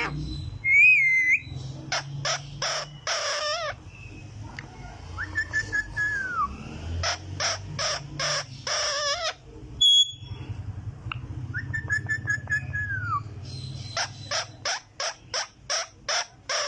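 Green parrot calling: several runs of quick repeated squawks, with a wavy whistle about a second in and two held whistled notes that fall in pitch at the end, around six and twelve seconds in.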